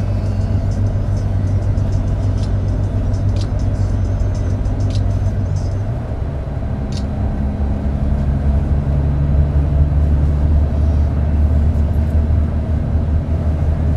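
Inside a Marcopolo Paradiso 1800 DD double-decker coach on a Scania K400 chassis under way: steady drone of the engine and tyres on the road, with a few light rattles. About six seconds in, the engine note shifts to a new pitch and dips briefly, then grows louder as the coach pulls on.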